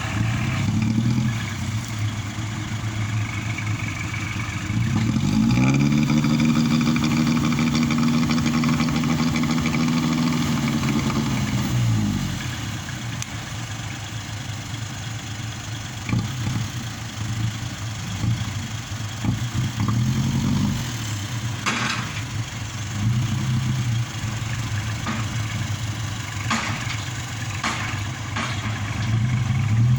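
Kubota tractor's diesel engine running, its speed rising about five seconds in, holding for some six seconds and then dropping back, with shorter rises in engine speed later on. A few sharp knocks sound in the second half.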